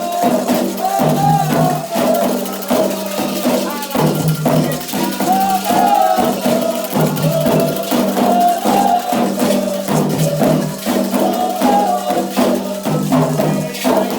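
Candomblé ritual music: voices singing a chant over dense hand percussion with a shaken rattle, the pattern recurring about every three seconds.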